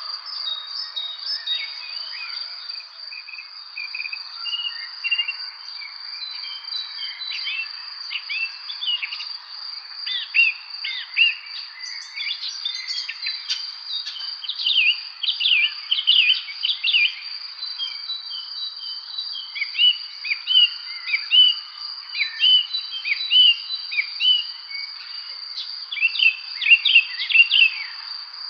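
Songbirds chirping and singing in a busy evening spring chorus of many short, quick calls, which grow denser about a third of the way in. Beneath them runs a continuous high-pitched trill.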